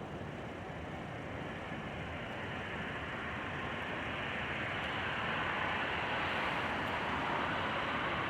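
Fireworks crackling overhead: a dense, steady sizzle of many small pops that slowly swells louder.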